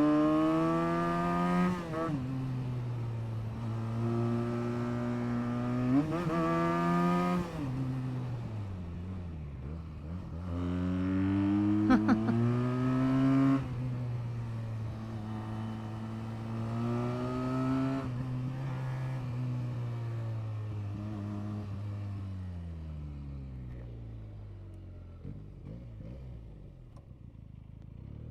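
Benelli BN 302 parallel-twin engine under full-throttle acceleration, its note climbing in pitch and dropping at each upshift, three times. About two-thirds of the way through the throttle closes and the engine note falls away and fades as the bike slows.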